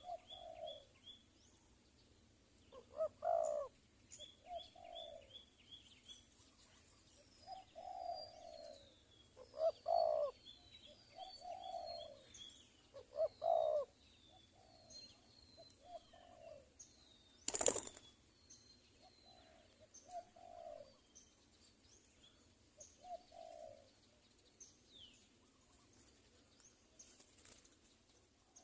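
Spotted doves (tekukur) cooing back and forth in short phrases, some coos louder and nearer than others, while small birds chirp high and rapidly. One sharp loud knock comes about two-thirds of the way through.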